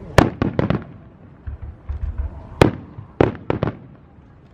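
Fireworks shells bursting in the sky, a series of sharp bangs with echoing tails: a quick run of about four in the first second, the loudest single bang about two and a half seconds in, then three more in quick succession, with low rumbling between them.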